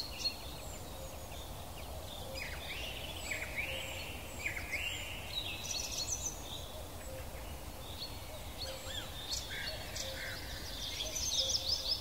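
Small birds chirping and twittering over a steady faint background hiss, with flurries of quick rising and falling chirps about two seconds in and again near the end.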